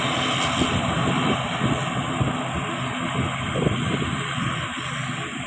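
ATR 42-500 turboprop's engines running steadily: a constant rushing engine noise with a steady low hum underneath, easing slightly near the end.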